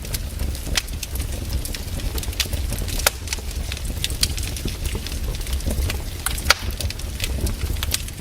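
Wood fire crackling in a fireplace: frequent sharp pops and snaps over a steady low rumble, with one louder pop about six and a half seconds in.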